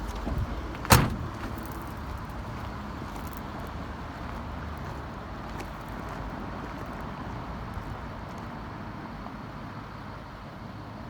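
A door slamming shut once, sharply, about a second in, most likely the truck's cab door, followed by a steady low rumble.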